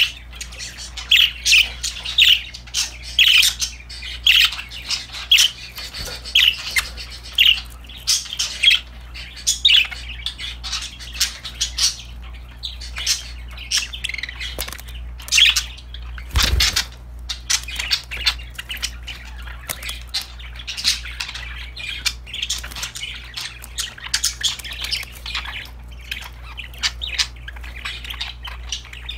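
Several pet budgerigars chirping and chattering: a run of sharp, regular calls about twice a second, then busier mixed chatter. A single thump about halfway through.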